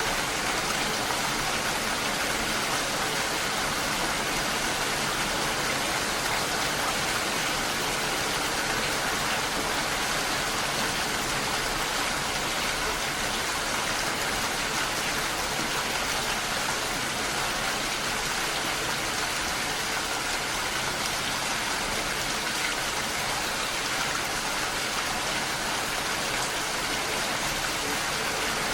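Steady rainfall: an even, unbroken hiss of rain falling.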